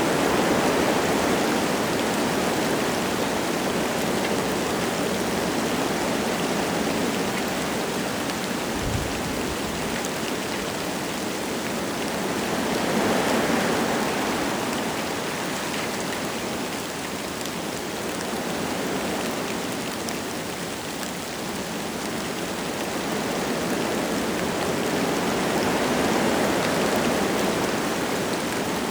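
Wind gusting through forest trees with light rain falling: a steady rushing hiss that swells and eases in slow surges, with one brief low bump about nine seconds in.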